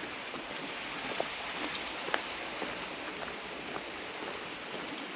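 Steady hiss of water pouring out of a pipe and splashing, with a few faint ticks scattered through it.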